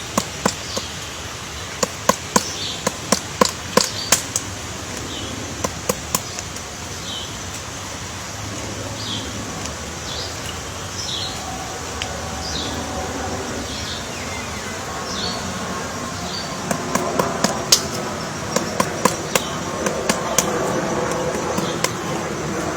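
Woodpecker pecking into wood as it excavates its nest hole: sharp taps in quick irregular runs, thick at the start, pausing, then resuming near the end.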